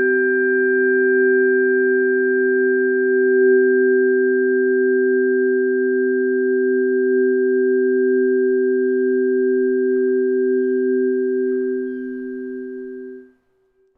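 A pair of Bio-Sonic tuning forks, tuned a fifth apart (C 256 Hz and G 384 Hz), sounding together as two steady, pure sustained tones. They die away slightly and then stop short of the end.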